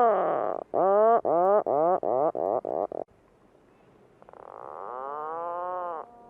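Puffin calling: low calls with rich overtones that bend in pitch. A quick run of short calls comes faster and faster, then stops about three seconds in, and a quieter drawn-out call follows.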